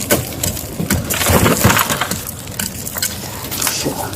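Glass from a crashed van's window being knocked out and crunching: several sharp knocks and scraping of broken glass.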